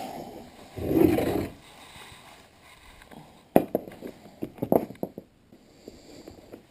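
A short low rumbling sound about a second in, then a run of sharp knocks and clanks from metal parts being handled.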